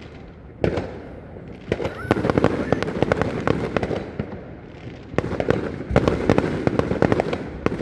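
Fireworks display: dense spells of rapid pops and crackles from bursting aerial shells, one starting about half a second in and another about five seconds in, with a quieter gap between.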